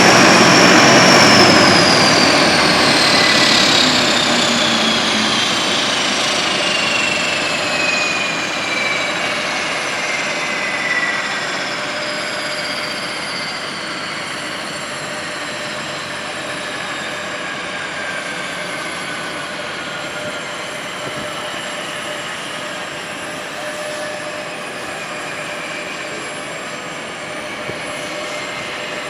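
Four-engine turboprop military transport aircraft passing and moving away. Its engine and propeller whine falls in pitch, and the sound fades slowly after its loudest point in the first couple of seconds.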